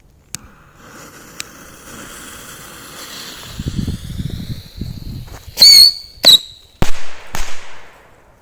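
Whistling fireworks going off: a hissing whistle that slowly rises in pitch, then four sharp bangs less than a second apart, the first two with a brief wavering shriek.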